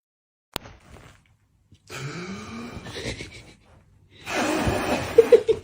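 A dog groaning with a rise and fall in pitch, then a long breathy sigh that ends in a few short squeaky whimpers.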